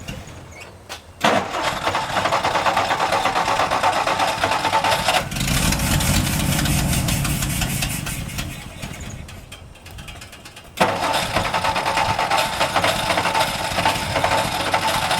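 1962 Ford F-350 farm truck's engine being started: it cuts in suddenly about a second in and runs, drops to a lower rumble that dies down, then cuts in sharply again near eleven seconds and keeps running.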